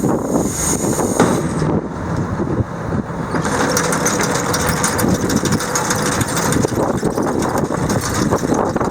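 Engine running steadily, with a faint steady tone through the middle.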